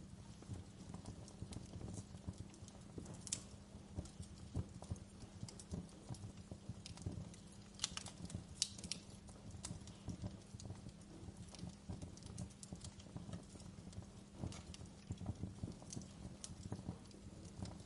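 Wood fire crackling in a fireplace: a steady stream of small pops and snaps over a low rumble, with a few sharper pops about three seconds in and again between eight and nine seconds.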